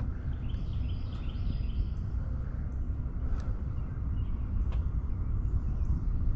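A steady low rumble, with short chirping calls of small animals repeating faintly above it and a few faint clicks.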